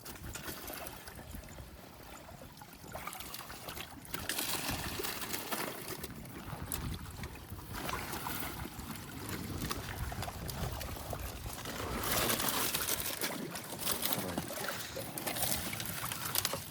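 Shallow water sloshing and trickling in uneven swells, louder from about four seconds in and again from about twelve seconds in.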